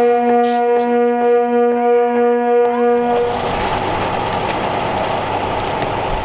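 A long, steady horn note with a single pitch that cuts off about three seconds in, followed by a steady rushing noise.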